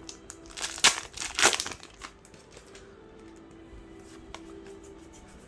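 Foil trading-card booster pack wrapper crinkling as it is handled, with two sharp rustles about a second and a second and a half in.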